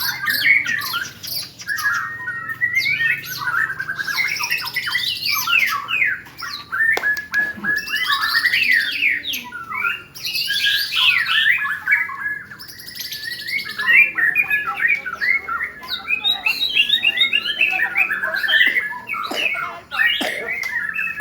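Many caged white-rumped shamas singing at once: a dense, overlapping chorus of loud whistles, rapid trills and harsh chattering phrases.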